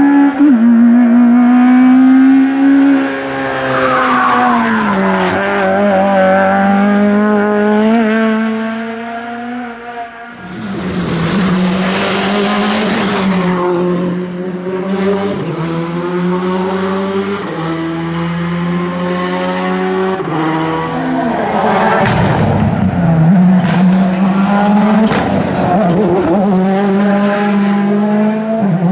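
Rally car engines driven hard on a special stage, the engine note holding high and then dropping in steps at gear changes and lifts. A loud rushing hiss of tyre noise comes in about ten seconds in and lasts a few seconds.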